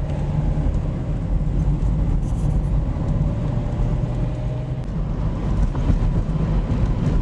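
Steady road and engine noise of a moving car heard from inside the cabin: a low, even rumble with a faint steady tone over it.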